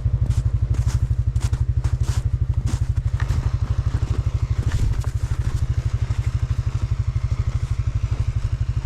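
Stels Leopard 650 ATV engine running at steady revs, an even fast low pulsing of the exhaust, with a few sharp crackling clicks in the first three seconds.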